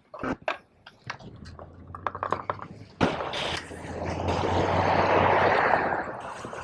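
A few clicks and knocks, then a car driving past: a low engine hum under tyre and road noise that swells up and fades away.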